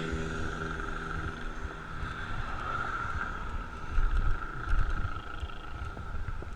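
Wind buffeting the microphone of a moving bicycle rider, with strong gusts about four and five seconds in, over a steady road and tyre hum; a steady engine hum from passing traffic fades out in the first two seconds.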